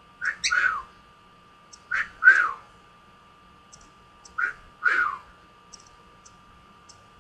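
Gray male cockatiel giving three paired calls, each a short note followed by a longer call that falls in pitch; the middle pair is the loudest.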